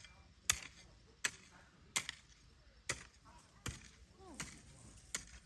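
A hand tool chopping with sharp, evenly paced strikes, about one every three-quarters of a second, with a brief gap before the last one.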